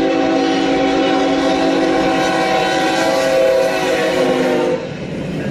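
A long, steady multi-note horn blast sounding a held chord, which cuts off near the end.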